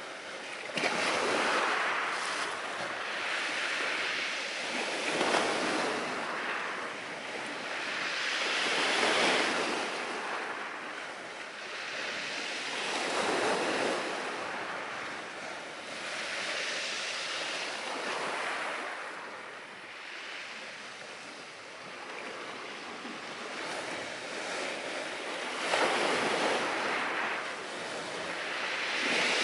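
Sea waves washing onto the shore, the surf swelling and falling back about every four seconds.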